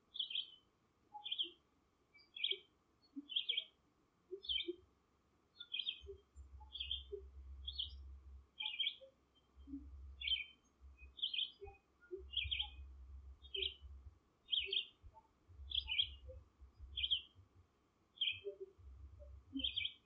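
A bird repeating a short, high call about once a second. A faint low rumble comes and goes underneath from about five seconds in.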